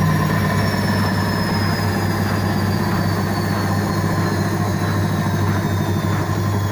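Indesit IWSC5085 washing machine running, a steady hum under a high motor whine that slowly falls in pitch as the drum changes speed.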